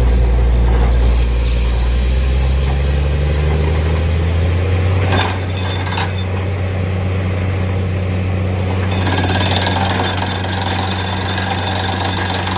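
Borewell drilling rig running: a steady engine drone that changes pitch about four to five seconds in, with stretches of hissing, rattling noise about a second in and again over the last few seconds, and two short knocks around five and six seconds.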